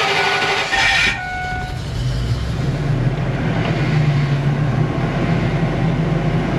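An RV's gasoline engine being cranked by the starter while a warning chime beeps, catching about a second in and settling into a steady idle. The owner says it started weird, an uneven start that he thinks may come from a failing fuel pump.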